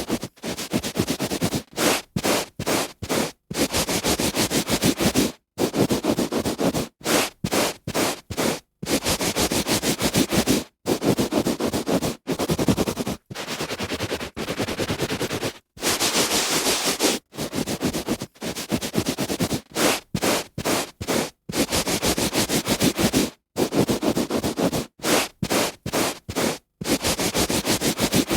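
A hand rubbing back and forth on a carpet, in strokes of scratchy noise from a fraction of a second to about two seconds long, each stopping short with a brief silence between.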